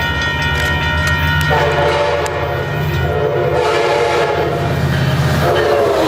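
Locomotive horn, likely a Nathan K5LA, sounding at length over the low rumble of a diesel passenger locomotive. The horn's chord shifts lower a few times.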